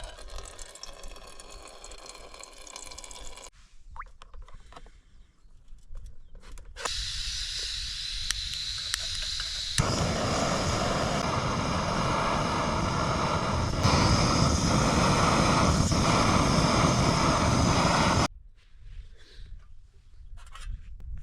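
Steady rush of hot water being readied for a dehydrated meal pouch. It grows louder about ten seconds in and cuts off suddenly a few seconds before the end, after quieter rustling at the start.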